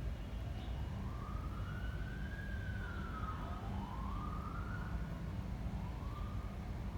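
Emergency-vehicle siren wailing, its pitch rising and falling in slow sweeps about every second and a half to three seconds, over a steady low rumble.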